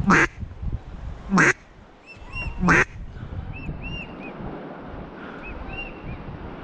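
Three loud duck quacks about a second and a half apart, followed by fainter short calls from other waterfowl overhead.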